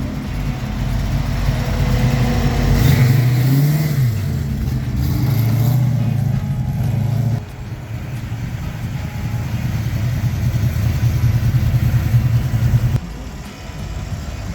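Car engine running and revving. It goes up and back down about three to four seconds in, falls off halfway, then builds steadily until it cuts back suddenly near the end.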